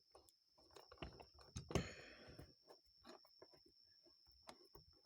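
Faint clicks and small taps of a screw being worked by hand into a carburetor body that will not thread, with one louder brief noise about two seconds in.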